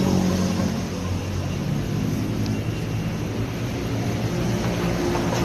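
A steady low engine-like hum with a few faint ticks over it.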